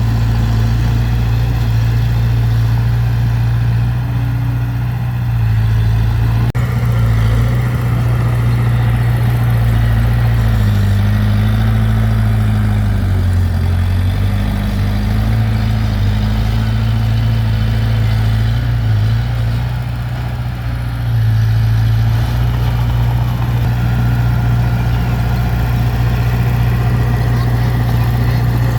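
Diesel engine of heavy earthmoving machinery running steadily, its low note sagging and recovering partway through.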